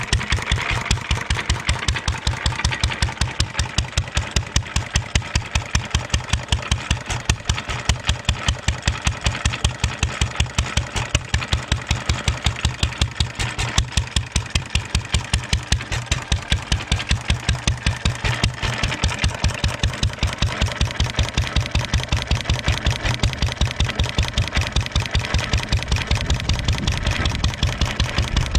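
A 1.5 hp International LA single-cylinder stationary engine running steadily, its exhaust beats coming at an even, regular pace.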